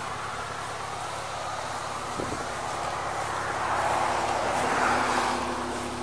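A vehicle engine idling with a steady low hum. A broad rushing sound swells and fades about four to five seconds in.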